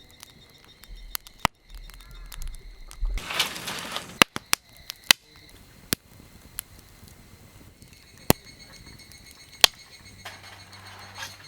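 Wood fire crackling in a compact fire pit, with irregular sharp pops and snaps. Two short rushing bursts come about three seconds in and near the end.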